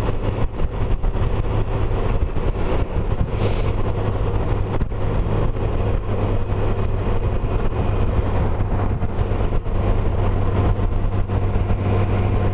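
Honda Gold Wing's flat-six engine running steadily at cruising speed, with wind and road noise over the motorcycle.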